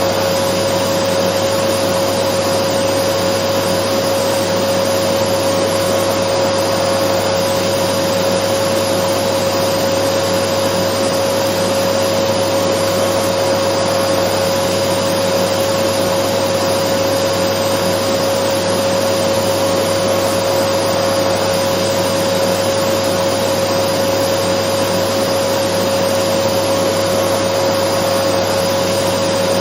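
Dyson vacuum cleaner running steadily at constant speed: an even rushing whir with a steady mid-pitched whine on top, as continuous white noise.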